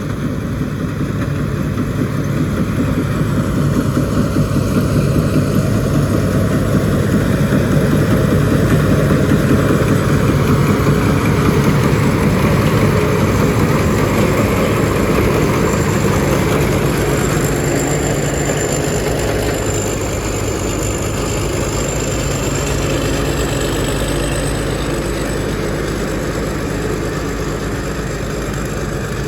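Rice combine harvester's diesel engine running steadily under working load. A thin high whine comes in about halfway through.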